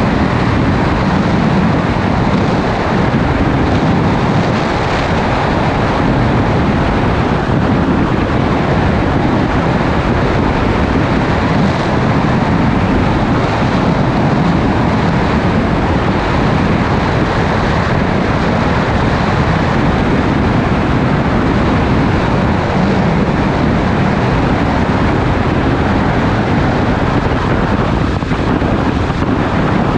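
A motorcycle cruising steadily at speed, its engine running under a constant rush of wind over the camera's microphone.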